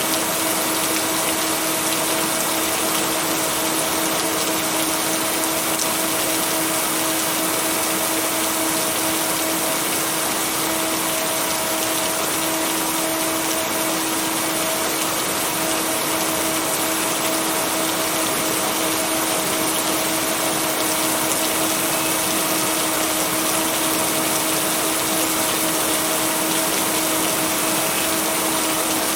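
Steady rain as an even, unbroken hiss, blended with white noise and a constant low two-note hum from binaural-beat tones. No thunderclap.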